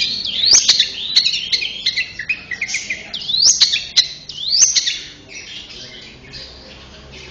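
Long-tailed shrike (cendet) singing a fast, varied chatter of chirps and sharp rising calls, with the song thinning out and growing fainter near the end.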